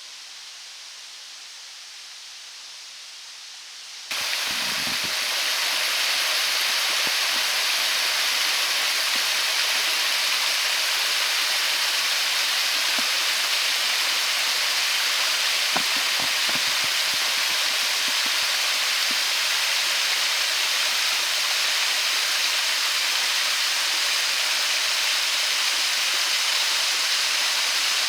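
Waterfall rushing steadily. A quieter hiss of water gives way abruptly to the much louder, full rush of falling water about four seconds in, with a few faint low knocks.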